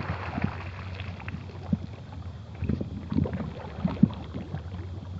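Water sloshing and splashing around a plastic kayak, with several irregular knocks on the hull over a steady low rumble; the loudest knock comes about four seconds in.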